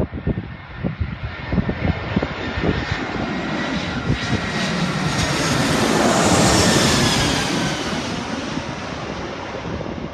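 Airbus A320-214's CFM56 jet engines passing close by as the airliner comes in to land. The engine noise swells to a peak about six and a half seconds in, with a whine that falls in pitch as it goes past, then fades. Wind buffets the microphone in the first couple of seconds.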